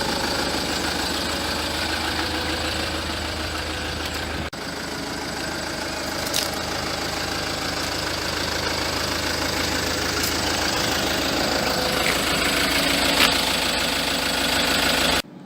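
MIG welder running a continuous weld on steel, crackling over a steady low electrical hum, with a brief break about four and a half seconds in and a sudden stop near the end.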